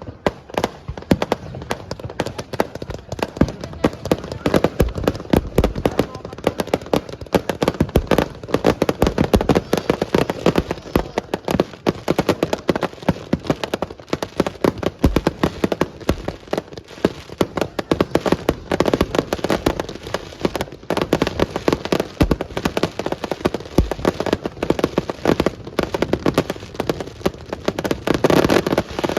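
Fireworks going off: a dense, continuous crackling of many rapid pops, with a heavier thump now and then.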